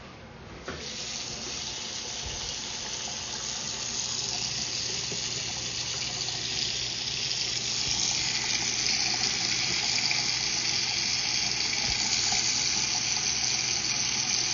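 Water running, turned on under a second in and growing steadily louder, with a brighter hiss from about eight seconds. It is being run into the drain line while the line is camera-inspected.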